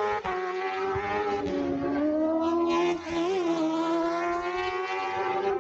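Racing superbike engines at high revs, giving a high, steady howl that dips in pitch and climbs back about two seconds in.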